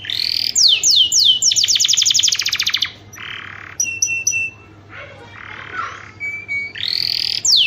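Domestic canary singing: a run of high falling whistles and a fast rattling trill, then quieter raspy notes and short steady whistled notes, with a loud rising-and-falling phrase near the end.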